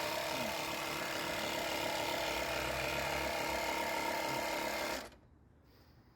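Air compressor running steadily while inflating a van's spare tyre, then switched off and stopping abruptly about five seconds in.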